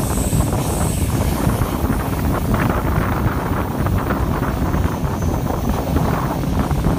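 Wind buffeting the microphone held out of the window of a moving passenger train, over the steady running noise of the coaches on the track.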